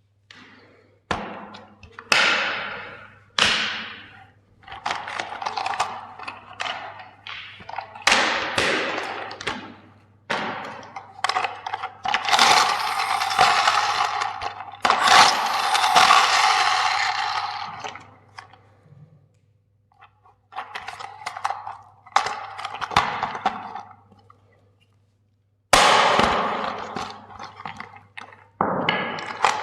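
Plastic toy vehicles cracking and crunching as they are crushed: a string of sharp cracks and snaps, with a long continuous crunch in the middle and two brief pauses later on.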